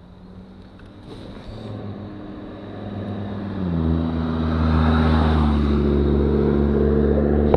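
A vehicle engine running and growing louder, its pitch stepping down once about three and a half seconds in, then holding steady.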